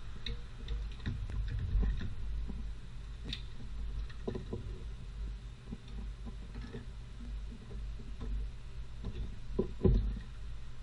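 Scattered light clicks and knocks of tools and metal parts being handled, with two louder knocks near the end, over a steady low hum.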